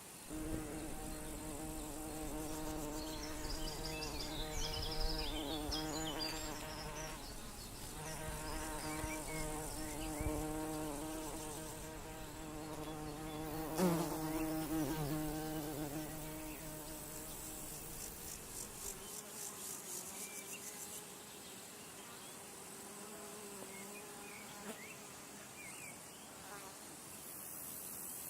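A flying insect buzzing close by, its wingbeat hum wavering in pitch and loudness. Around the middle it swoops past with a quick rise and fall in pitch, and after that the buzz grows fainter. Through the middle stretch there is also a fast, high-pitched insect chirring.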